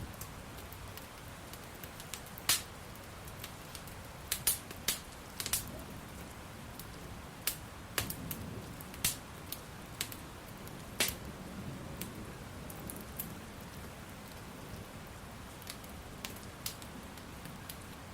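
Wood fire crackling, with sharp irregular pops over a steady bed of rain.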